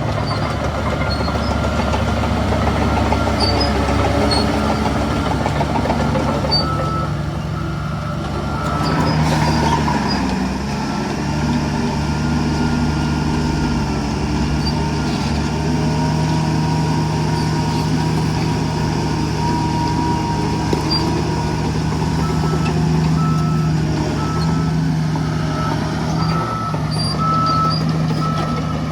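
Heavy diesel earthmoving machinery running steadily, with a vehicle reversing alarm beeping in repeated short tones, clearest in the last few seconds. There is a brief swell of louder noise about nine seconds in.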